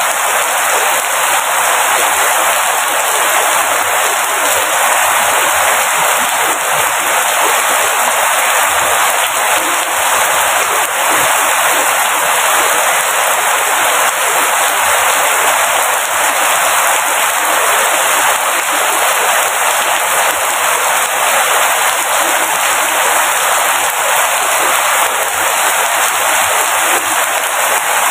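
Steady, dense rainfall, an even unbroken hiss.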